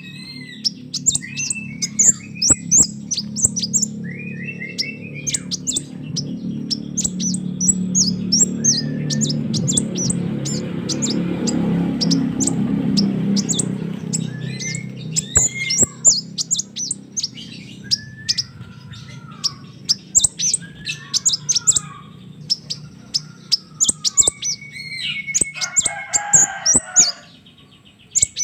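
Crimson sunbird giving rapid, high, thin chirps and short trills over and over, used as a lure call. A low rumble swells up and fades away in the middle.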